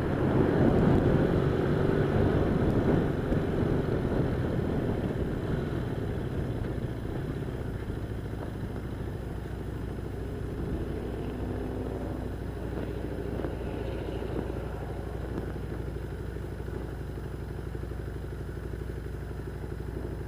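1978 Honda Hawk 400's parallel-twin engine running as the motorcycle is ridden, louder for the first few seconds, then easing off to a steady level.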